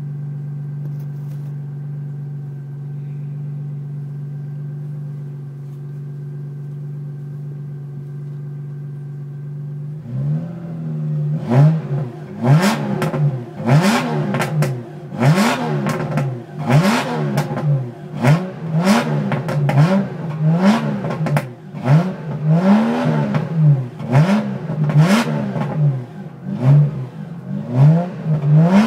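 Subaru SVX's 3.3-litre flat-six exhaust idling steadily, then about ten seconds in the throttle is blipped over and over, roughly once a second, each rev rising and falling with crackles and pops from the exhaust as it drops back.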